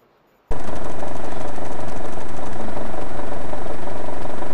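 A loud engine running with a fast, even rattle, cutting in abruptly about half a second in.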